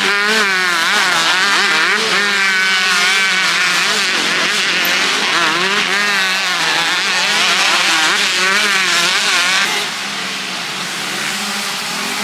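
Several 125 and 250 cc motocross bikes racing, their engines revving up and down over and over with overlapping, wavering notes. The sound gets quieter near the end as they pull away.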